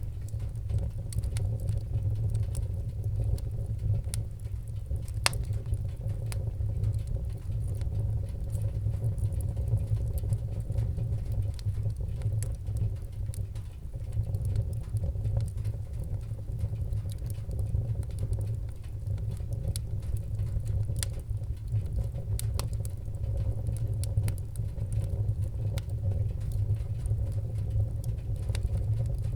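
Wood fire in a fireplace crackling, with scattered sharp pops over a steady low rumble of the flames; one louder pop about five seconds in.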